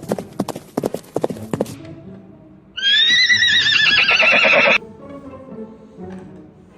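Horse hooves clip-clopping in a quick run, then a horse whinnying loudly for about two seconds, with a wavering pitch, before it cuts off suddenly. Faint background music runs underneath.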